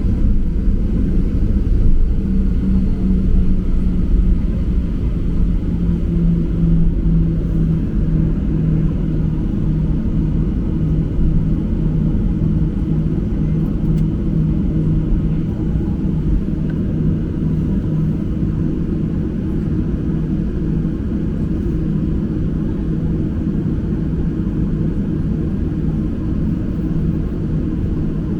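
Boeing 737-800 cabin noise: the steady low rumble of the CFM56 engines and airflow, with a humming tone that drops slightly in pitch about five seconds in.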